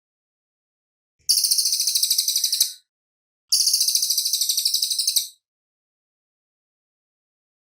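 Cililin bird singing: two rapid, high-pitched trilling phrases, each about a second and a half long, separated by silence.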